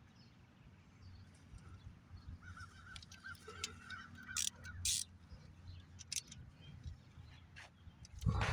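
A short run of faint repeated bird calls a few seconds in, and a few sharp clicks of hand tools on metal.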